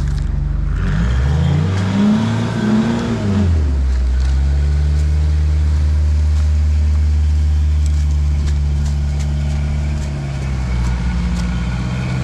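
Diesel four-wheel-drive engine revving up and falling back over the first few seconds, then running steadily, with its pitch lifting slightly near the end.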